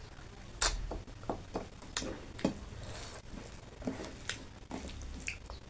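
Close-miked eating: wet chewing and lip smacking, in a string of short clicks and squishes about one or two a second.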